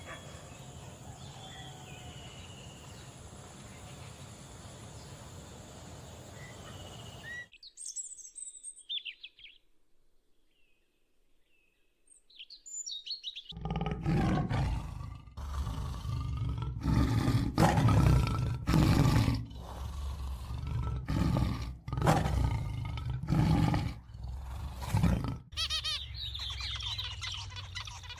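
Animal calls in a run of cut-together recordings: high chirping bird calls, then a long series of loud repeated calls each about a second long, then chirping again near the end.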